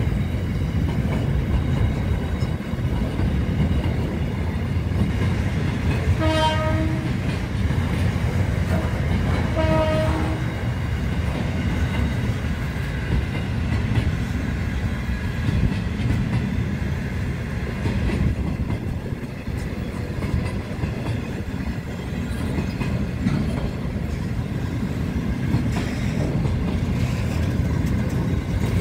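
A long train passing close by, its wagons rolling over the rails in a steady low rumble. Two short horn blasts sound about six and ten seconds in.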